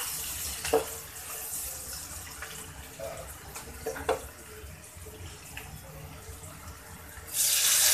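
Sliced onions frying in oil in a non-stick kadai, a steady soft sizzle with a couple of short knocks. Near the end a little water is poured into the hot oil and it bursts into a loud hiss.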